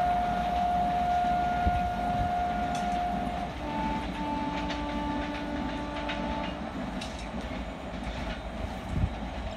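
Train horn sounding two long blasts: the first a single steady note for about three seconds, the second a little higher, with a brief break near its start, lasting about three seconds. Under both is the steady low rumble and clatter of the train's wheels on the rails.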